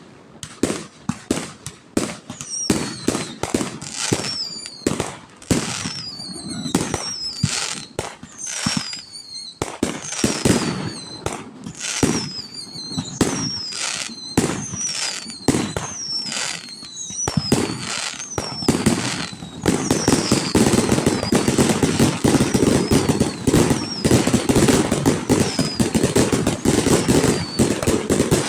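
Fireworks display: a rapid run of sharp bangs, many with short whistles that fall in pitch. About two-thirds of the way through it turns into a dense, continuous crackling barrage with fainter falling whistles.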